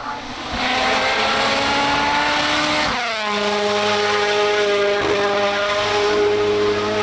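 Rally car engine running at high revs, its pitch climbing slowly, then dropping sharply about three seconds in and holding steady.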